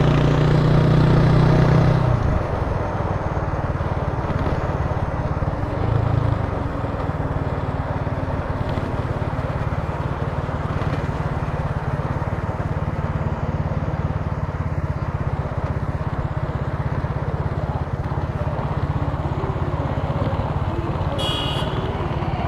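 Italika TC300 motorcycle engine running under way. It is loud for about the first two seconds, drops to a quieter, steady running note, swells briefly around six seconds in, and a short high-pitched tone sounds near the end.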